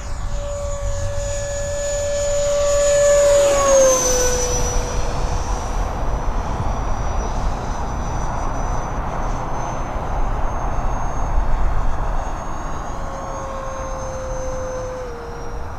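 Electric ducted-fan motor of a Freewing A-4 Skyhawk RC jet whining in flight. The whine swells and drops in pitch as the jet passes about four seconds in. It then runs steadier, with another small drop in pitch near the end.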